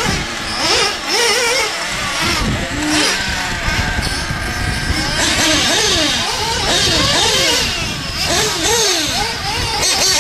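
Picco .28 two-stroke nitro glow engine of a 1/8-scale Losi 8ight RC truggy, revving up and down over and over in quick rising and falling sweeps of pitch as the car accelerates and slows. The engine is freshly run-in.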